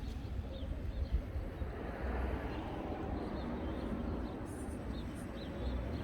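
Absima Sherpa RC scale crawler driving, a steady mechanical running noise that gets louder about two seconds in, over a low rumble.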